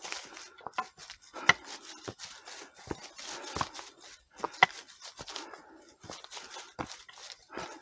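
Footsteps of hikers walking uphill on a forest trail: irregular steps and scuffs, with an occasional sharper click or knock.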